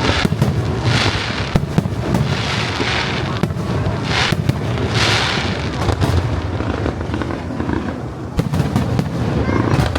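Aerial fireworks display: a dense run of sharp bangs over a steady low rumble, with bursts of crackling hiss from the shells roughly once a second, the crackle easing after about six seconds.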